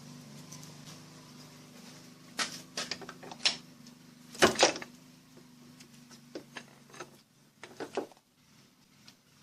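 A steady low electrical hum that cuts off about seven seconds in, with several clicks and knocks of handling; the loudest knock is about four and a half seconds in.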